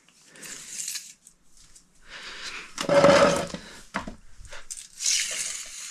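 Handling noise: short bursts of scraping and rattling, loudest about three seconds in, with a few sharp clicks around the four-second mark.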